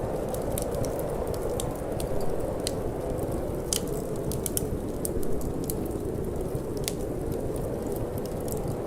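Wood fire crackling, with frequent small sharp pops scattered irregularly over a steady low rush of wind.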